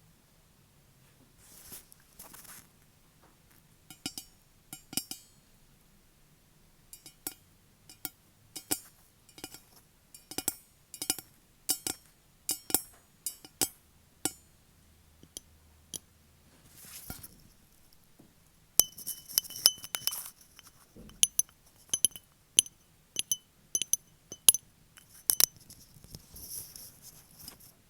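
Long fake nails tapping and clicking on a hard object that gives a short ringing note with each tap, in irregular runs of quick taps. A few brief scratchy rubbing sounds come in between, about two seconds in, near seventeen seconds, and near the end.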